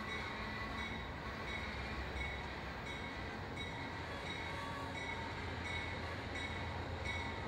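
A train rumbling at a station, with a bell ringing steadily at about three strokes every two seconds.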